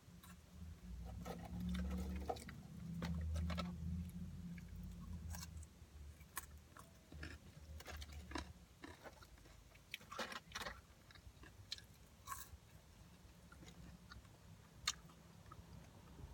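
A person chewing food close to the microphone, with soft crunches and mouth clicks scattered throughout. A low rumble sits under the chewing for about the first half, then fades.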